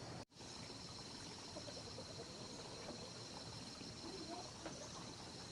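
Faint insect chorus, a steady thin high-pitched buzz, after a brief dropout just after the start.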